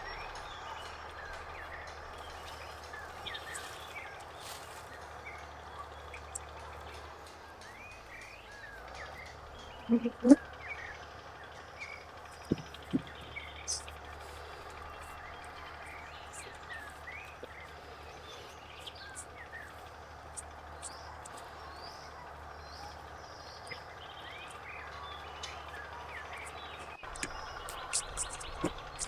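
Outdoor ambience with many small birds chirping. About ten seconds in comes a short, loud pitched sound, followed by a few sharp knocks.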